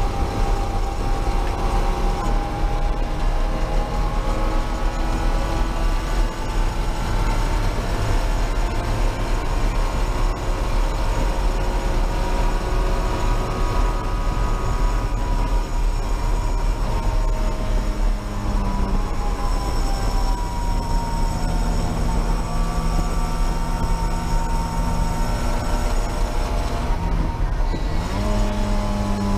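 MGB race car's engine heard from inside the cabin, running hard at high revs under racing load, its pitch drifting slowly up and down with the throttle. Near the end the pitch dips briefly and then climbs again.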